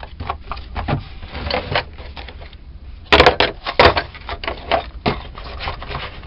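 Irregular clicks and knocks of a hand tool and hard objects being handled, with a few loud sharp clicks about three seconds in.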